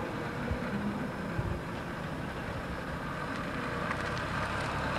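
Car engine running at idle close by, a steady low rumble, with two brief knocks in the first second and a half.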